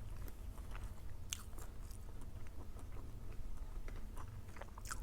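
Person chewing food close to the microphone, with scattered small crunches and mouth clicks over a steady low hum.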